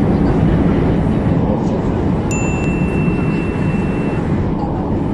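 Metro train running between stations, heard from inside the car: a steady, loud low rumble of wheels and running gear. A little over two seconds in, a thin high tone starts and holds for about two seconds.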